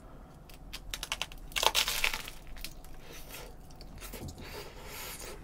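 Close-up eating sounds: biting into and chewing crusty ciabatta bread topped with sauce-glazed chicken. The loudest part is a crunchy, crackling stretch about a second and a half in, followed by quieter chewing.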